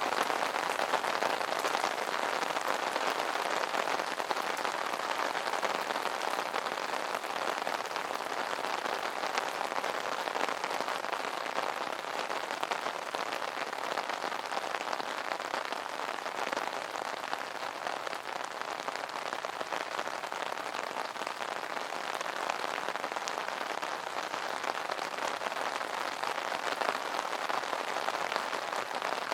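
Steady rain pattering on an umbrella canopy, a dense continuous spatter of drops.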